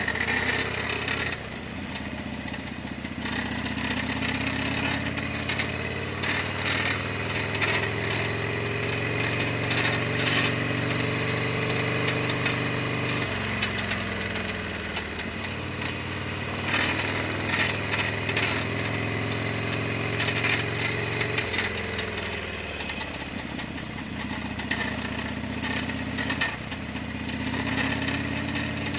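Harley-Davidson Sportster XL1200R's air-cooled V-twin engine running on the road. Its note drops sharply twice, about halfway through and again about three quarters through.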